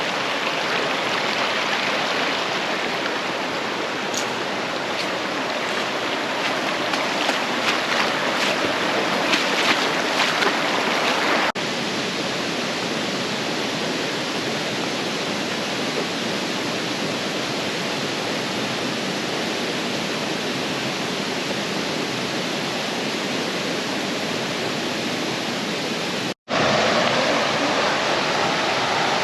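Steady rush of water over rocks in a creek and its falls, broken by two short cuts: one about a third of the way in, and one near the end, after which the rush is a little louder.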